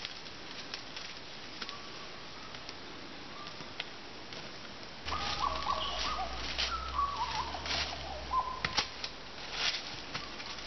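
Birds calling: short sharp chirps throughout, and about halfway through a run of whistled notes stepping between a few pitches, over a low rumble that stops shortly before the end.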